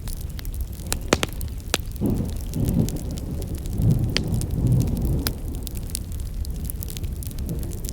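Campfire of burning firewood crackling, with frequent sharp pops and snaps over a steady low rumble; the low rumble swells louder from about two to five seconds in.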